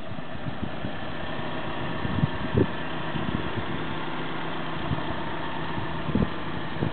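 2004 Ford Focus ZX4 SE's four-cylinder engine idling steadily, with a few short low thumps partway through and near the end.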